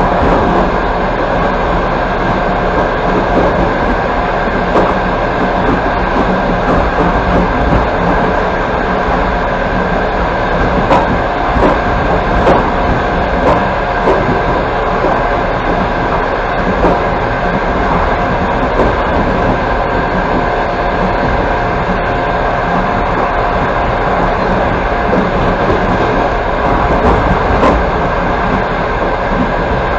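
Passenger carriage of an express train running along the track, heard from inside by the window: a steady rumble of wheels on rails with a few light, irregular knocks.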